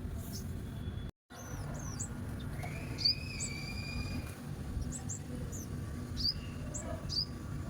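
Small birds chirping in short high calls, with two longer held whistled notes about three seconds in, over a steady low background rumble.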